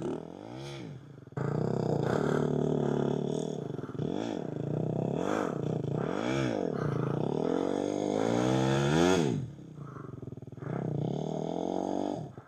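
Dirt bike engine revving up and down while riding, with a series of quick rises and falls in pitch and a longer climbing rev that drops off about nine seconds in, then running more quietly.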